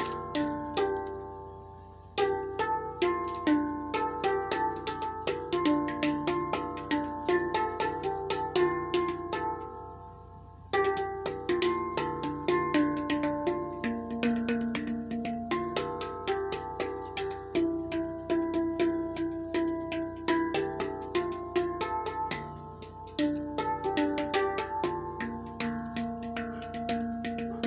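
Steel space drum played by hand: a quick run of struck notes, each ringing on and overlapping the next, in a flowing melodic pattern with short pauses about 2 and 10 seconds in.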